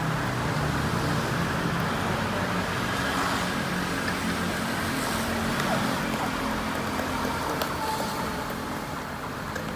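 Water spraying onto a car windshield while silicone wiper blades sweep the wet glass smoothly, without chatter, over a steady low hum. The glass has been cleaned of its water-repellent coating, which had been making the blades judder.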